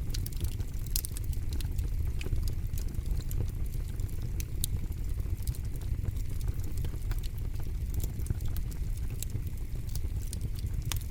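Campfire burning, with a steady low rumble of flames and frequent irregular sharp crackles and pops from the burning wood.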